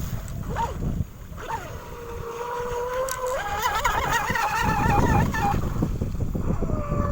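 Electric motor of an RC outrigger boat on a 6S battery whining as the boat runs, its pitch climbing and wavering with the throttle about halfway through, over a steady rush of wind and water.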